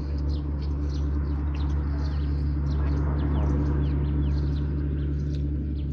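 Small birds chirping over and over, short high notes and quick downward slides, over a loud steady low hum.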